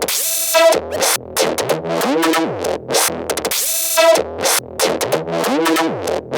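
Electronic dance music built from looped samples: drum-machine beats and synthesizer stabs in a pattern that repeats about every two seconds.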